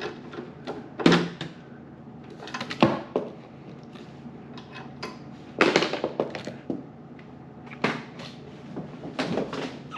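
Irregular clunks and knocks, about half a dozen spread out, from a car's hood being handled and lifted off its hinges.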